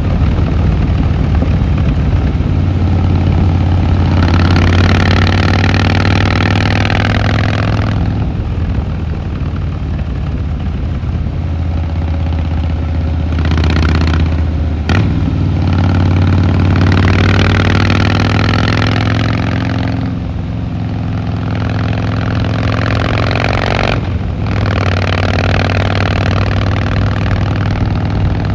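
Harley-Davidson Fat Boy Lo's V-twin engine and exhaust running under way. The throttle opens in several swells, the pitch rising with each, and the sound dips briefly a few times, as at gear changes.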